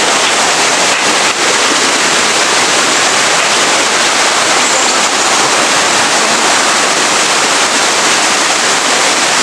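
Small waterfall: water rushing steadily over rocks, a loud, even rush with no breaks.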